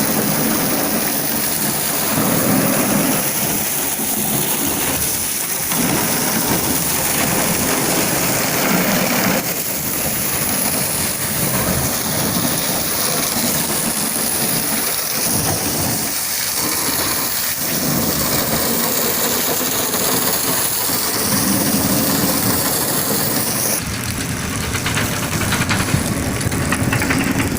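High-pressure water spraying onto a car at a car wash: a steady, loud hiss of the water jet that shifts in tone about 24 seconds in.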